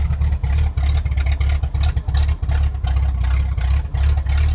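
1988 Jeep Cherokee engine running through open headers with no exhaust system behind them: a loud, choppy, low rumble with quick, uneven dips.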